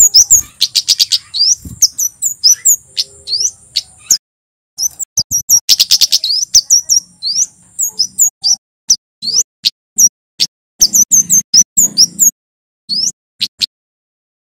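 Male kemade flowerpecker calling loudly: sharp, high chirps, some run together in quick rattling series, with a brief break about four seconds in and a pause near the end.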